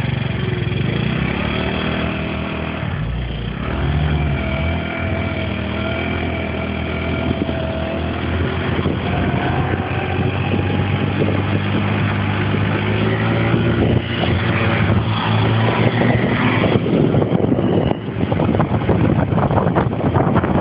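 Rex RS 450 scooter's small engine running under way, its note slowly climbing as the scooter gains speed, a sound its owner finds odd. Wind noise on the microphone grows over the last few seconds.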